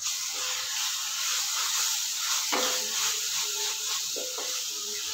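Spiced onion masala frying in a metal kadai, sizzling steadily as a wooden spatula stirs the freshly added spice powder in, with a few scrapes of the spatula against the pan.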